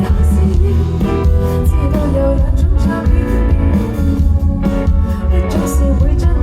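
Live band performance: electric guitar, bass and drums with a sung vocal line, heard through a concert sound system with heavy bass.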